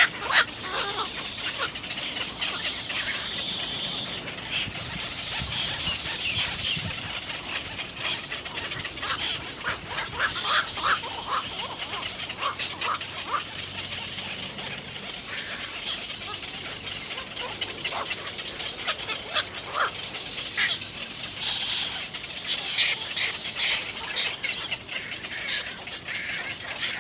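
Birds chirping: many short, high calls repeated through the whole stretch.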